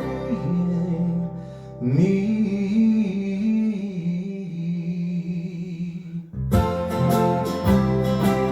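A man singing holds out the last notes of a line, the second one long and slightly wavering. About six and a half seconds in, strummed acoustic guitar chords come in.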